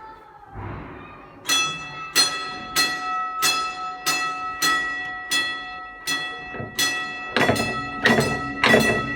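Tram gong struck over and over, about one and a half strikes a second, each stroke ringing on. About seven and a half seconds in, the strikes get louder and fuller.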